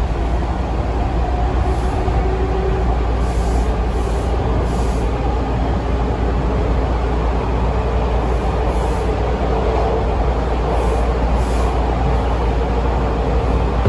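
Inside a moving Bombardier T1 subway car: a steady rumble of the train running between stations, with a faint steady tone under it and a few faint high ticks.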